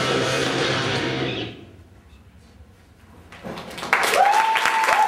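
Guitar music fades out to a brief lull, then a live audience bursts into applause with cheering voices about four seconds in.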